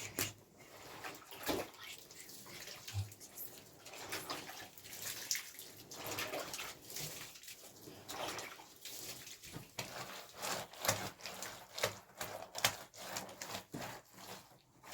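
Water splashing as wet soil is worked, in irregular, uneven splashes and scrapes.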